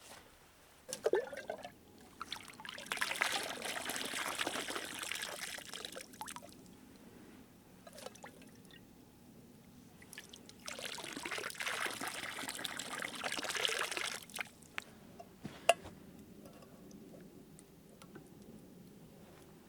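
Water poured out in two spells of about three to four seconds each, with a knock about a second in and a sharp click near the end.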